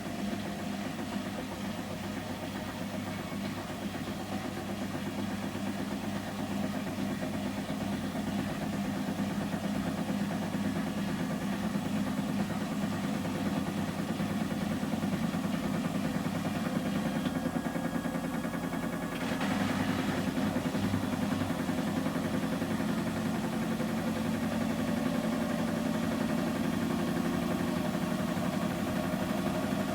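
Samsung Series 5+ washing machine in its final spin at 800 rpm, the drum and motor running with a steady hum. About two-thirds of the way in the sound briefly shifts, then carries on slightly louder.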